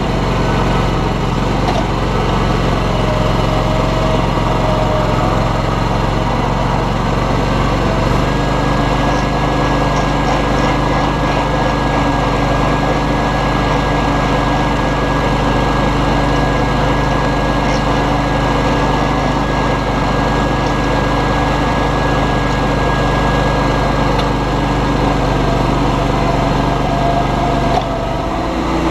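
John Deere lawn tractor engine running steadily under way, with a thin high whine joining about eight seconds in and the tone changing again near the end.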